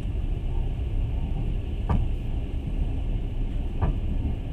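Passenger train running, heard from inside the carriage: a steady low rumble, with two sharp knocks about two seconds apart.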